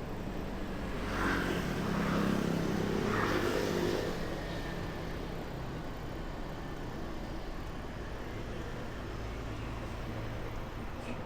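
Street traffic with a steady road noise. A motor vehicle's engine passes close, louder from about one second in to about four seconds in.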